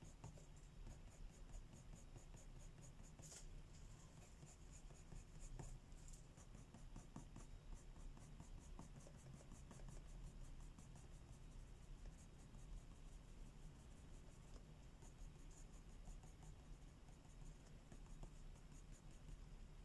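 Faint, quick back-and-forth strokes of a colouring pencil scratching on paper as a page is coloured in.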